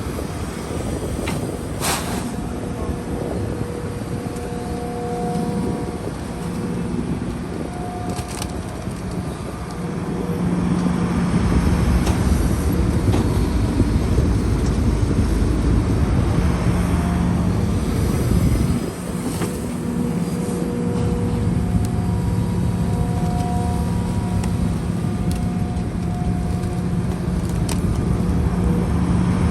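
Heavy diesel earthmoving machinery running under load. The engine note grows louder about ten seconds in and drops briefly near nineteen seconds, and a couple of sharp metallic knocks come in the first ten seconds.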